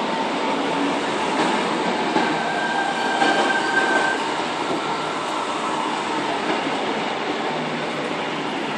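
Sydney Trains Tangara electric train passing through the station at speed, steady rumble of wheels on rail, with a brief high wheel squeal about three seconds in.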